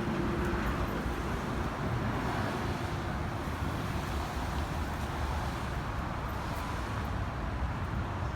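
Steady low engine and road noise of a car being driven, heard from inside.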